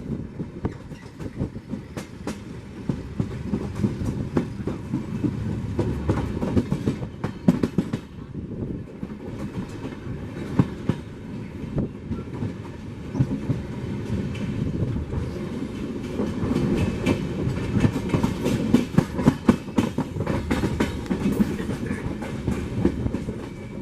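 Moving LHB passenger train heard from on board: a steady low rumble of steel wheels on rail, with a continuous run of sharp clicks as the wheels pass over rail joints and points.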